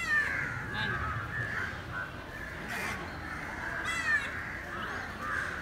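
Many birds calling over one another in short, curving calls. One loud call comes right at the start and another about four seconds in.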